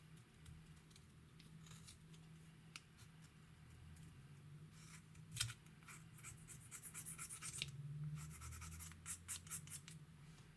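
Slime being worked by hand, making faint sticky clicks and crackles. There is a sharp pop about five seconds in, then runs of quick crackling.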